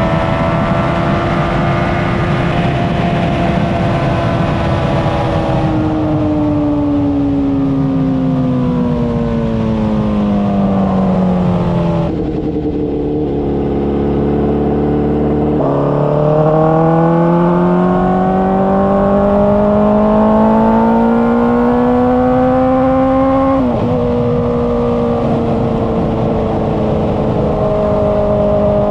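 Honda CBR600RR's inline-four engine and exhaust: it holds a steady note over wind noise, then its pitch falls for several seconds as the bike slows and holds low and even for a few seconds. It then climbs in one long pull, drops suddenly about three-quarters of the way through at an upshift, and holds steady near the end.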